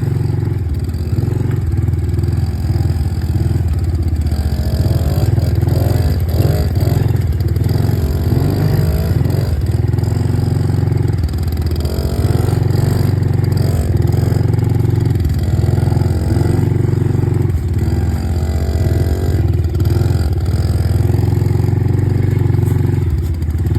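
Dirt bike engine running while ridden, its revs rising and falling over and over with the throttle, with a brief easing off about halfway through and again near the end.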